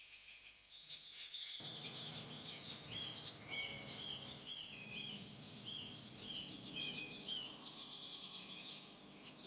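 Birds chirping, a dense chorus of short, repeated warbling calls, with a steady rushing background noise that sets in about one and a half seconds in.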